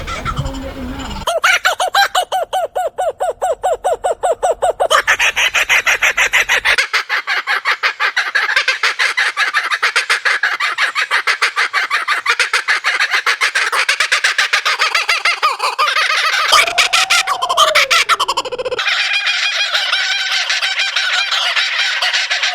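Laughing kookaburras calling: a long run of rapid, repeated chuckling notes that carries on throughout. The laughing breaks off and restarts abruptly several times.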